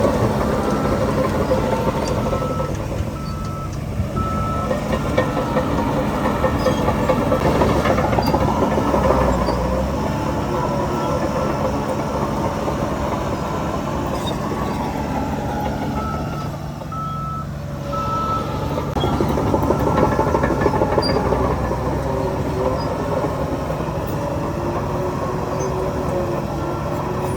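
Heavy diesel machinery running steadily under load, with a reversing alarm beeping in short repeated pulses that stop and start several times.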